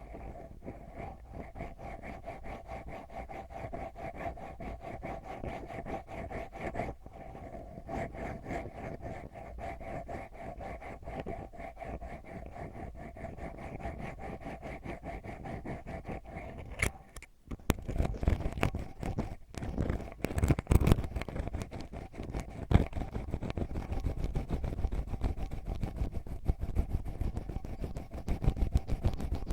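Ear pick scratching rapidly and continuously inside a microphone's ear canal. After a short break about two-thirds of the way in, the scratching returns louder and heavier.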